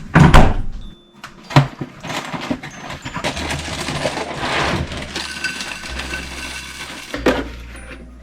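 Milk poured from a carton over cereal in a bowl: a steady pouring hiss for about five seconds, framed by knocks of the carton and bowl being handled and set down, the loudest just at the start.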